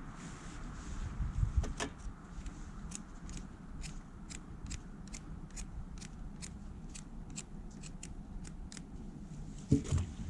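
A run of sharp, evenly spaced clicks, about two to three a second, over a low rumble, with a louder thump near the end.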